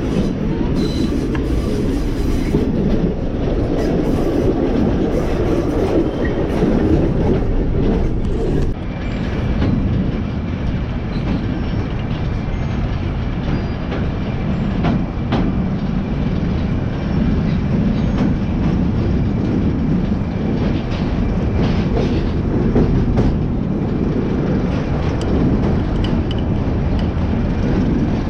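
Heritage passenger train running along the track: a steady low rumble from the moving carriages, with scattered clicks from the wheels on the rails.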